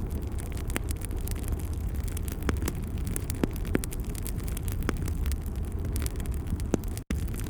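Wood fire burning in a fireplace: a steady low rumble of flames with scattered sharp crackles and pops. The sound cuts out for an instant near the end.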